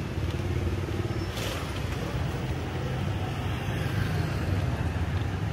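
Road traffic: a steady low rumble of passing cars and motorbikes, with a brief hiss about a second and a half in.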